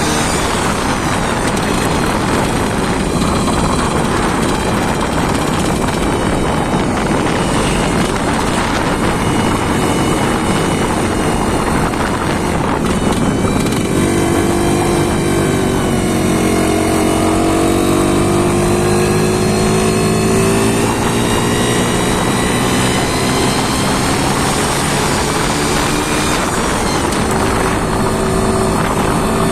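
An engine running loudly and steadily on test, its pitch swinging up and back down about halfway through as it is revved.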